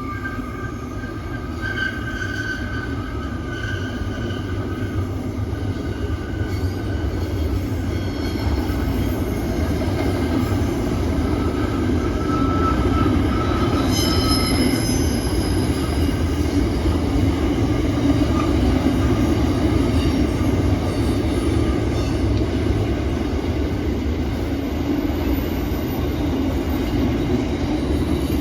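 A train running on the rails with a steady rumble that grows louder, its wheels squealing in several high tones through the first half before the squeal dies away.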